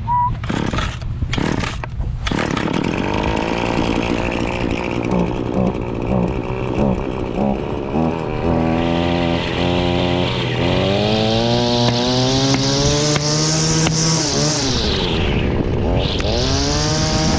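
Gas string trimmer (weed whacker) being pull-started: a few quick cord pulls, then the engine catches about two seconds in and runs. It is then revved up, with a long rising whine, dropped back, and revved up again near the end.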